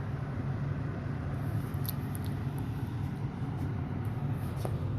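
A vehicle engine idling: a steady low rumble, with a few faint clicks about two seconds in.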